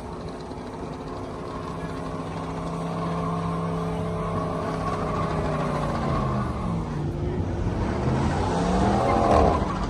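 Car engine running at a steady pitch, growing louder, then revved up and down several times in the last few seconds. The revving sounds pretty good.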